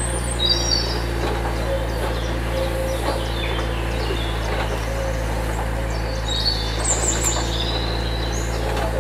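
Small birds chirping: a couple of short calls just after the start and a cluster about two-thirds of the way in, over a steady low hum. A few faint clicks and scrapes come in between.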